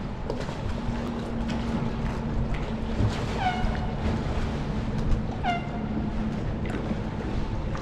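A bird calling twice, each a short mewing call sliding downward in pitch, over steady wind and water noise.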